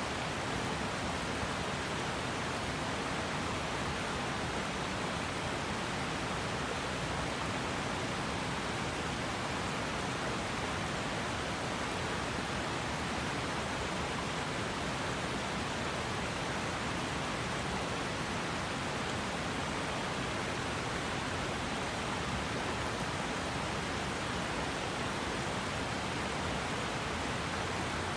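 River water rushing and splashing over rocks, an even steady rush with no change in level.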